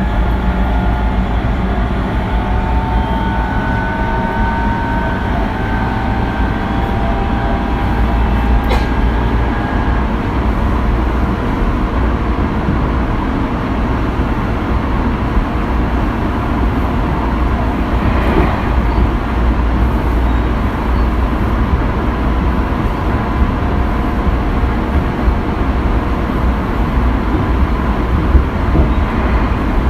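Tobu 20400 series electric train running between stations: a steady low rumble of wheels on rail with a faint motor whine, whose pitch rises slowly over the first ten seconds as the train gathers speed and then holds steady, with a couple of brief clatters.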